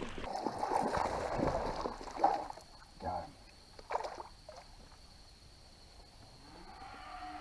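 Water sloshing and gurgling around a kayak, with a few short knocks in the middle, then quieter, with a faint steady high tone underneath.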